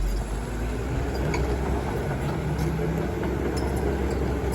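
Heavy diesel engines of an excavator and dump trucks running steadily at low revs, a continuous low hum.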